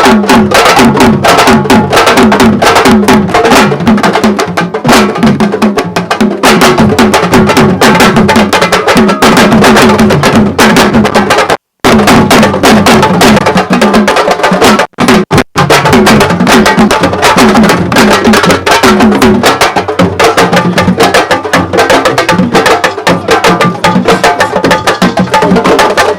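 Fast, dense drumming music with rapid pitched drum strokes, cutting out for an instant about twelve seconds in and twice briefly around fifteen seconds.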